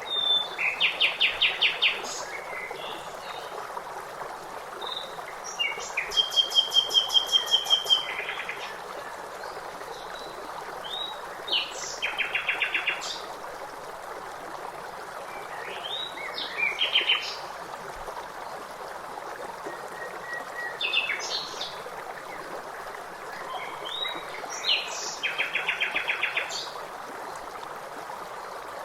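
Songbirds singing short phrases every few seconds, each ending in a rapid trill, over a steady rush of flowing water.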